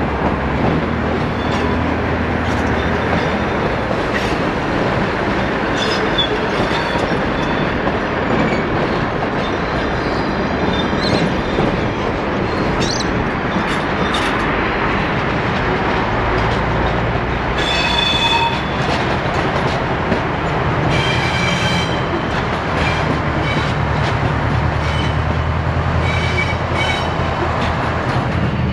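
Diesel suburban railcars rumbling through a rail yard, with the low hum of their engines and the click of wheels over rail joints and points. Two brief high wheel squeals come a little past the middle.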